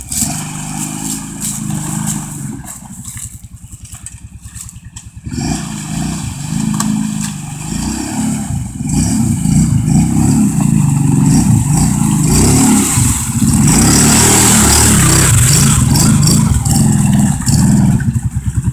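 ATV engine running in deep river water, quieter for the first few seconds, then revved hard with the pitch rising and falling. A loud rushing hiss joins the engine in the second half.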